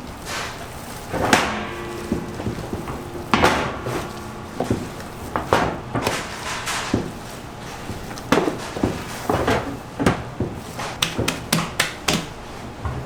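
Irregular knocks and clatters of hard objects, about a dozen spread unevenly, several with a brief ringing tail.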